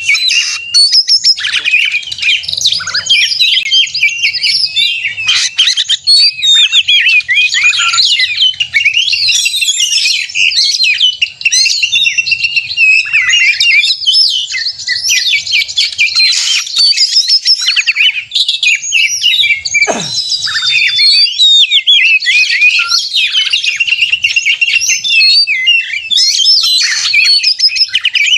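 Oriental magpie-robin (kacer) singing nonstop in excited 'gacor konslet' fighting song: a fast, dense stream of varied whistles, trills and chirps with no pauses. It is the agitated, territorial song used as a lure to provoke other magpie-robins into singing.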